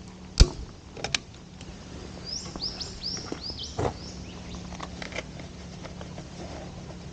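A bird giving a quick run of about six short, high, rising calls a couple of seconds in, with a few sharp clicks and knocks around it, the loudest about half a second in.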